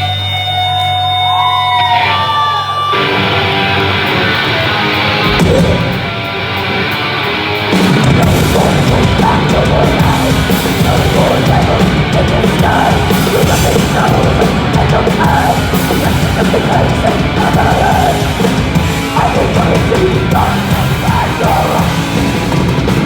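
Loud heavy rock band music, played live. Held guitar notes ring for the first few seconds, then the full band comes in about eight seconds in, dense and driving.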